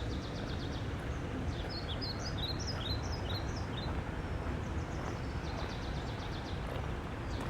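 Steady rush of flowing river water with small birds singing over it: a fast trill of evenly repeated notes at the start and again about five seconds in, and a varied twittering song between about one and a half and three and a half seconds in.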